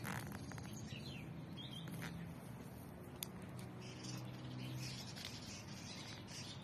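Garden birds chirping in short, high calls over a steady low hum, with a single sharp click about three seconds in.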